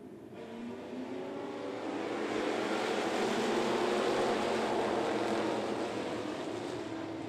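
A pack of dirt-track race car engines passing by. The sound swells in the first few seconds, is loudest around the middle and fades toward the end.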